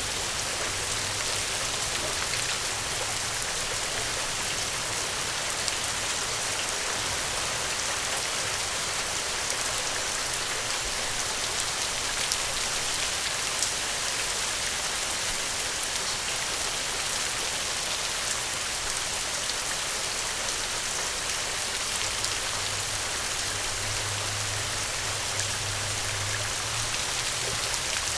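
Steady gentle rain: an even hiss of falling rain with fine pattering drops, with a faint low rumble underneath that swells near the end.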